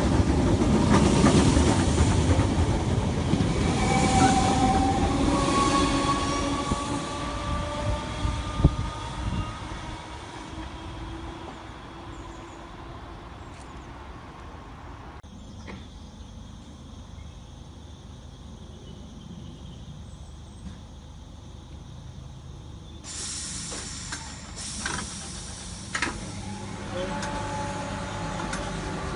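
Great Northern electric multiple-unit train pulling away along the platform, its motor whine rising in pitch over the rumble of the wheels, then fading as it leaves. After a quiet stretch, another train comes in near the end with a few sharp clicks of wheels over rail joints and a steady squeal.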